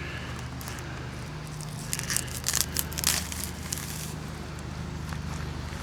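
Crackling and rustling as carrots and their leafy tops are pulled from the soil and handled, in a short cluster of small snaps and crunches about two seconds in.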